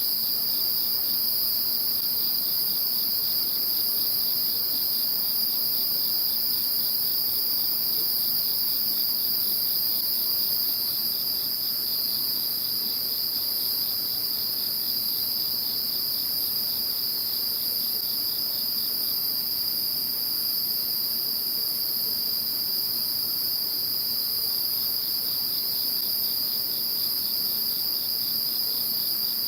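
A chorus of insects calling without a break after a typhoon. Two steady high trills sound together, one above the other, with a faint rapid pulsing beneath them that comes and goes.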